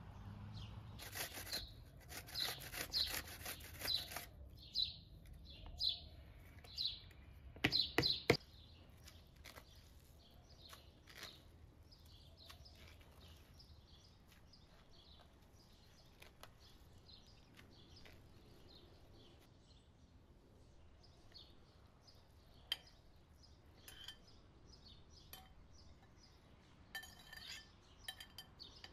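Small birds chirping again and again, most busily in the first several seconds and more sparsely after, with a few light clinks.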